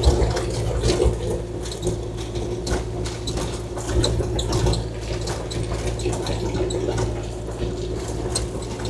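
Kubota KX040-4 mini excavator running: a steady diesel hum with a steady hydraulic whine over it, and scattered clicks and knocks throughout.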